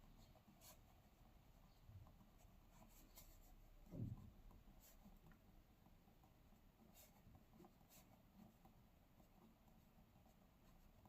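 Faint pen scratching on paper, heard as scattered light strokes close to silence, with one soft low thump about four seconds in.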